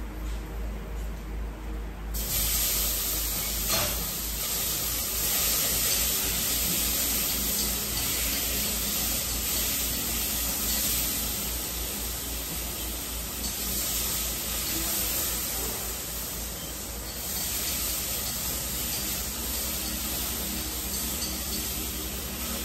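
Stir-fry sizzling in hot oil in a pan, starting suddenly about two seconds in as the food goes into the pan, and running on with small swells as it cooks.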